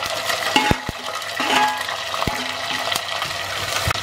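Chopped shallots, garlic, green chilli and curry leaves sizzling in hot sesame oil in a clay pot, with about four light knocks along the way.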